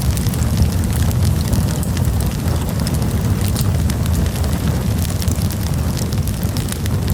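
Campfire crackling, with many small sharp pops scattered over a steady low rumble.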